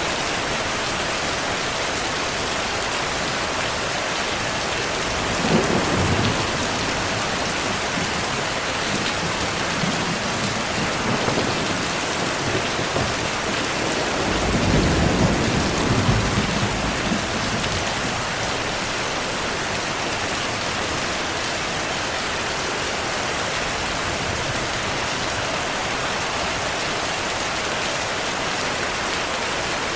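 Steady heavy rainfall with rolling thunder: a short rumble about five seconds in and a longer, louder roll around the middle.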